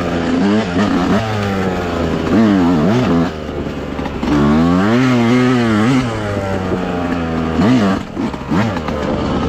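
Dirt bike engine revving up and down as the throttle is worked on and off along the trail, with a longer pull about halfway through and a sharp drop in revs near the end.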